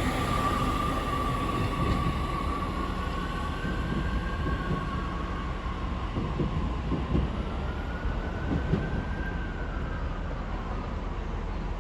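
Class 331 electric multiple unit pulling away from the platform: a steady rumble under a traction whine that slides down, then rises and falls twice as the train gathers speed.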